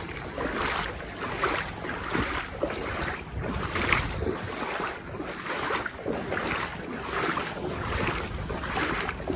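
Legs wading through knee-deep floodwater, a swish and slosh of water with each stride, about two strides a second.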